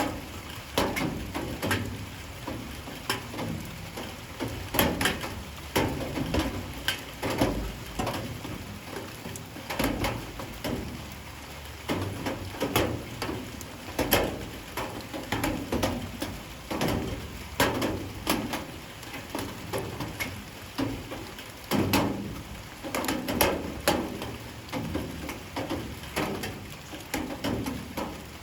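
Light rain falling, with a steady hiss and many irregular drops hitting a hard surface several times a second.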